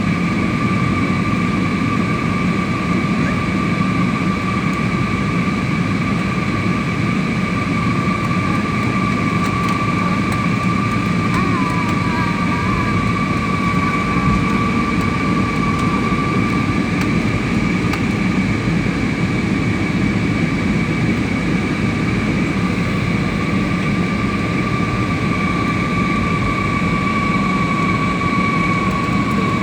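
Steady airliner cabin noise in flight: a constant rush of engine and airflow noise with a high, steady whine from the engines over it.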